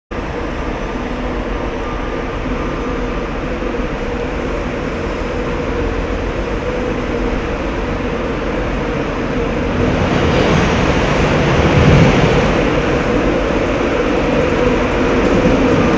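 Class 91 electric locomotive moving slowly along the platform road with its coaches, giving a steady mechanical hum and wheel noise. It grows louder as it approaches and is loudest about twelve seconds in.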